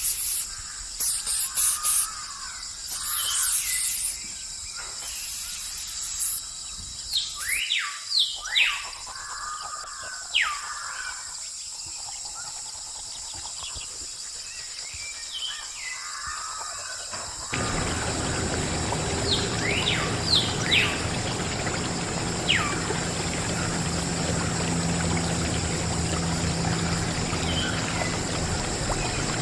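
Small birds chirping with short, quick calls over a steady high hiss. More than halfway in, a louder steady rushing noise with a low hum comes in.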